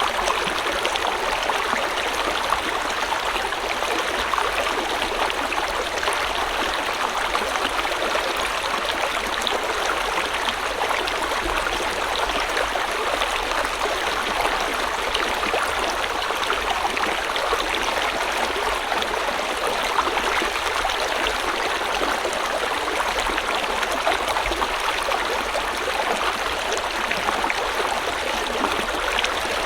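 River water flowing steadily over rocks: a constant rushing babble with no breaks.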